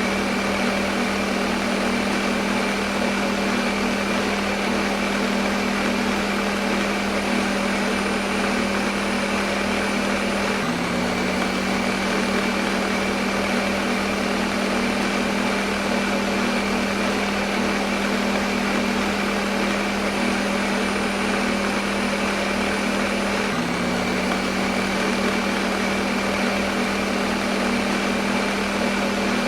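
Electric kitchen blender running steadily, a constant motor hum with a broad whir over it, used as white noise. The pitch dips briefly twice, about a third and four-fifths of the way through.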